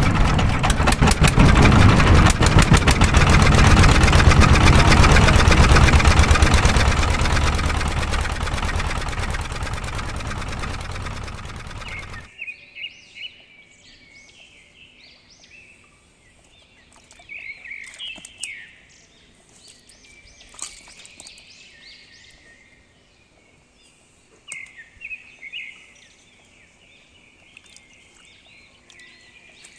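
A small engine running with a rapid, even firing pulse. It fades over several seconds and cuts off abruptly about twelve seconds in. After that, birds chirp on and off.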